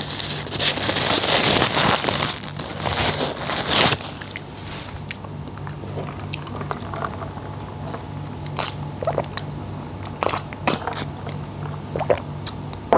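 Close-miked chewing with crunching, loudest and densest in the first four seconds, then softer chewing with scattered small clicks, over a steady low hum.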